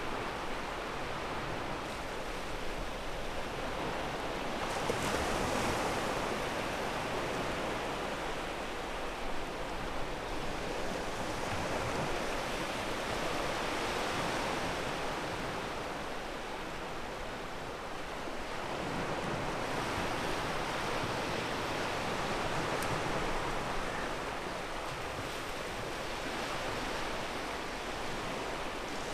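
Ocean surf washing onto a pebble beach: a steady rush of water that swells and eases every several seconds as waves break and draw back.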